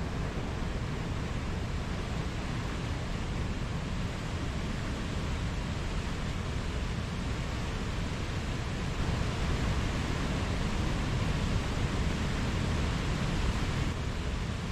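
Mountain stream running: a steady rush of water, a little louder from about nine seconds in.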